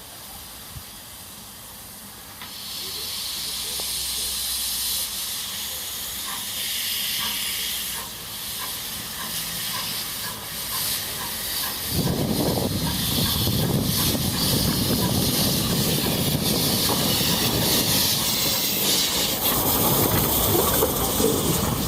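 Steam hissing from Beyer, Peacock tank locomotive No. 4 "Loch" of 1874: a light hiss grows louder about two seconds in, then about halfway it suddenly becomes a much louder, fuller rush of steam that carries on to the end.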